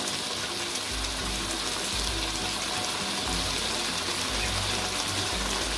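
Eggplant and sea fish cooking in a thick sauce in a wok, giving off a steady sizzle, with no stirring. Faint background music plays under it.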